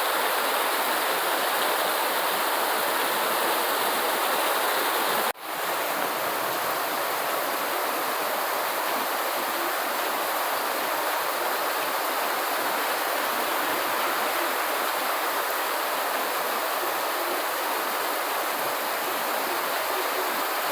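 Steady, dense rain noise with no distinct drops or thunder. About five seconds in it cuts out for an instant, then carries on a little quieter.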